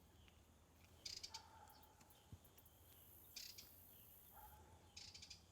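Near silence: room tone, with three faint, brief high-pitched sounds about a second in, about three and a half seconds in and near the end.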